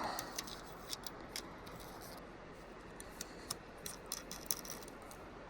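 Faint, scattered light clicks and small rattles from small gear being handled, about a dozen irregular ticks with the loudest about four and a half seconds in.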